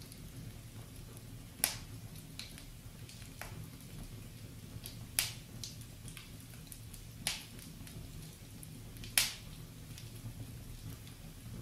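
Wood fire in a fireplace crackling, over a low steady rumble of the flames. Small crackles are scattered throughout, with four sharp pops from the burning logs.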